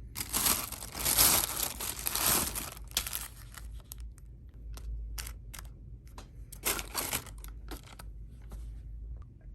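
Packaging crinkling and rustling as it is handled: a long stretch near the start and a shorter one about two-thirds of the way through, with scattered light clicks and taps in between.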